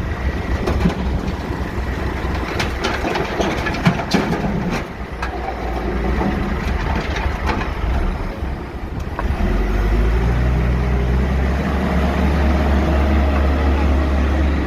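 Backhoe engine running while rocks clatter and knock, with many sharp knocks over the first several seconds. About nine and a half seconds in, the engine steps up to a louder, steady drone.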